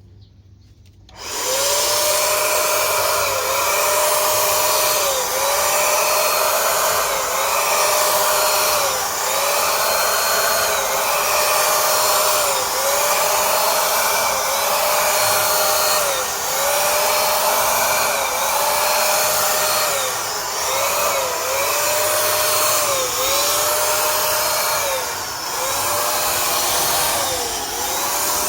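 Cordless electric paint spray gun's blower motor starting about a second in and then running steadily. Its whine dips briefly in pitch about every second and a half.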